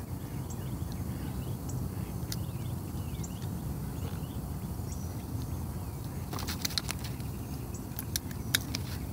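Small birds chirping faintly over a steady low outdoor rumble, broken by a cluster of sharp clicks and knocks about six and a half seconds in and again near the end.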